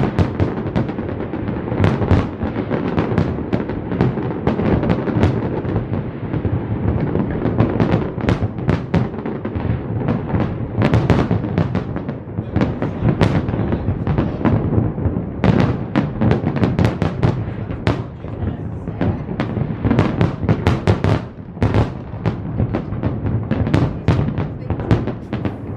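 Fireworks display going off in a dense, continuous barrage of bangs, with heavier volleys of rapid bursts past the middle and near the end.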